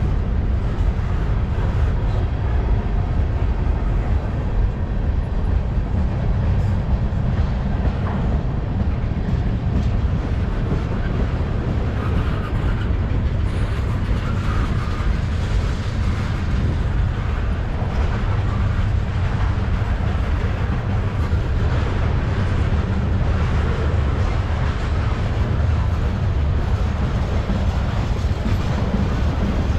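Mixed freight train rolling past close by, a steady heavy rumble of railcar wheels on the rails.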